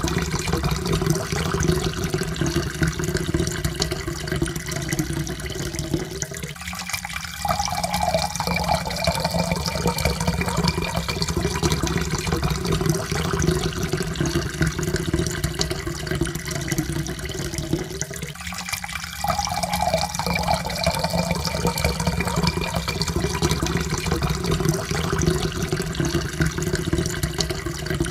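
Water poured steadily into a cup, with a continuous splashing rush. It breaks off briefly twice, and after each break a faint note rises slowly as the pour runs on.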